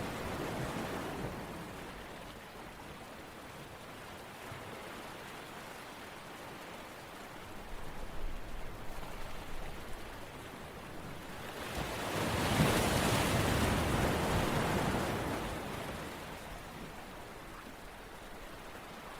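Ocean waves washing in and drawing back: the surf fades early on, fizzes briefly, then a larger wave builds about twelve seconds in and recedes a few seconds later.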